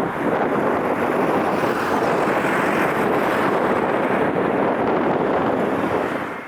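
Steady rushing roar of a jet airliner's engines, mixed with strong wind buffeting the microphone.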